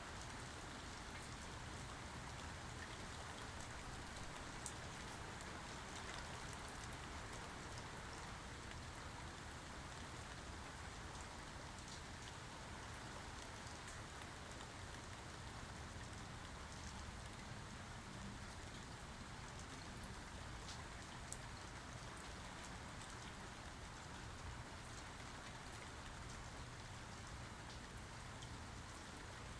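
Steady rainfall, with scattered individual drops ticking sharply over the even hiss of the rain.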